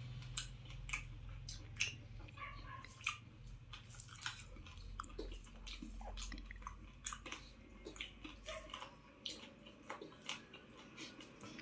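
A person chewing and biting into a cooked desi chicken leg piece, with many irregular mouth clicks and smacks.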